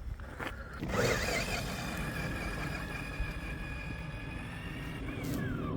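Axial SCX6 Honcho RC crawler's electric motor and geared drivetrain whining under throttle. The whine rises about a second in, holds steady, then falls away near the end.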